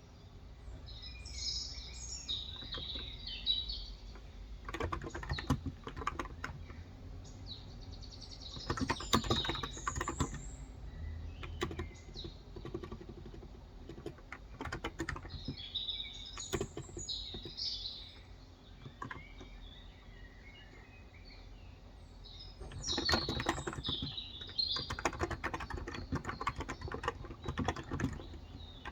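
Typing in bursts on a Cox Endeavor electro-capacitive tenkeyless keyboard with light 35 g keys, rapid runs of key strokes with pauses between them. Birds chirping in between, some of them over the typing.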